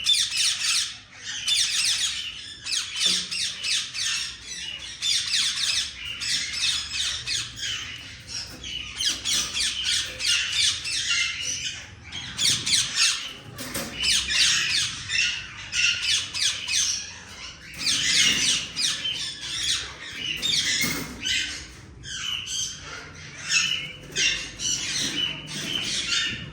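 Many aviary parrots squawking, harsh calls overlapping almost without a break, with short lulls now and then.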